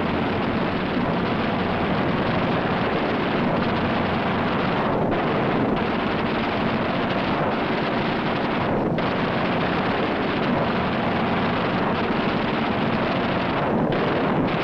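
Steady, dense drone of aircraft engines on an old wartime film soundtrack, with a few brief dips in the higher sound.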